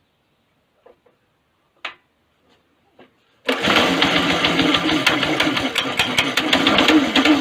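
A few faint clicks, then about three and a half seconds in the go-kart's small engine starts abruptly and keeps running with a rapid, uneven beat.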